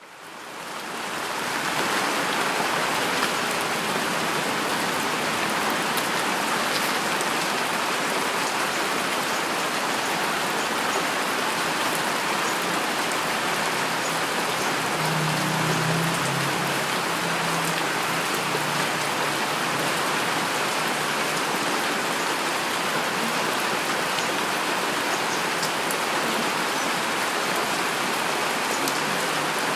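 Steady heavy rainfall, a dense patter of drops, fading in over the first couple of seconds, with a brief low rumble about halfway through.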